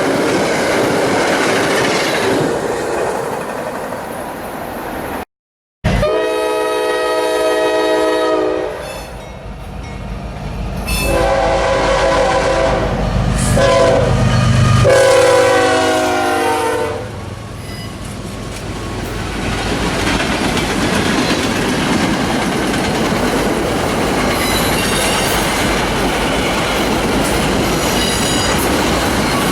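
Freight or passenger train rolling past with wheels clattering over the rails, then, after a cut, a locomotive air horn sounding four blasts, the first and last the longest, over the engine's rumble. The train then continues rolling by with steady wheel clatter.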